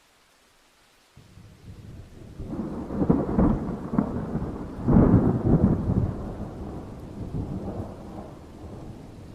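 Distant thunder: a rumble that starts suddenly about a second in, swells through two loud peaks, then slowly rolls away, over a faint steady hiss of rain.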